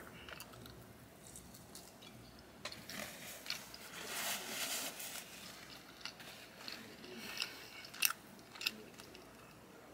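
Close-miked chewing of a bite of soft garlic Texas toast, mouth closed, with a few sharp clicks scattered through it.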